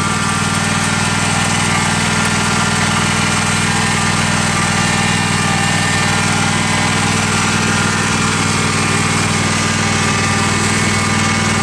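Tractor engine running at a steady speed, a constant even hum throughout.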